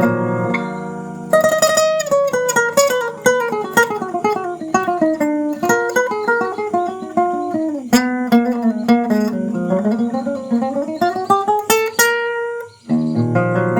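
Steel-string acoustic guitar (a CGC 100 NS 'cowboy' guitar) being played as a sound test. A chord rings out, then a long run of single picked notes falls in pitch and climbs back up. It ends on a held note, and strummed chords start again near the end.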